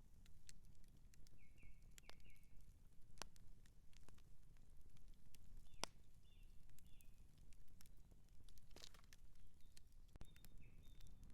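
Outdoor campfire burning faintly: wood crackling and popping in sharp, irregular clicks over a low steady rumble. A bird chirps in short runs of two or three high notes, three times.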